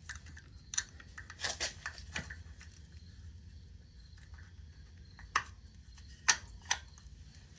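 Scattered light clicks and taps of small metal ignition parts being handled while fitting a Dyna S electronic ignition plate, over a steady low hum. The sharpest taps come in the second half.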